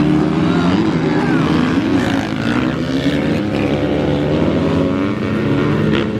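A motor vehicle engine running continuously, its pitch rising and falling as the throttle changes.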